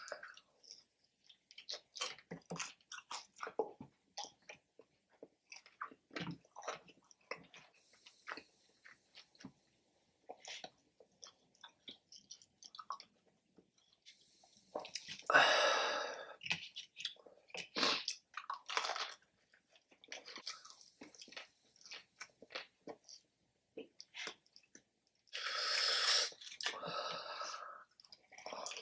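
Close-miked chewing and biting into fried chicken wings: a steady run of small crunches and wet mouth clicks, with two louder, longer noisy bursts, about halfway and near the end.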